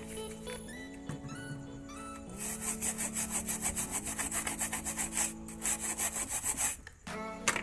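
Rapid back-and-forth scraping on the phone's circuit board, about five strokes a second, as the charging-port area is cleaned. It starts about two seconds in and stops shortly before the end, over background music.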